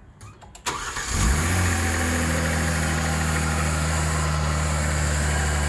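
Kia Stinger's engine cranking and catching about a second in, with a short flare in revs, then settling into a steady idle. The car is running after a front-end crash that tore off its intercooler.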